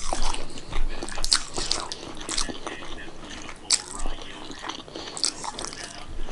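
Close-up mouth sounds of a person eating rice and daal by hand: wet chewing with irregular sharp smacks and clicks.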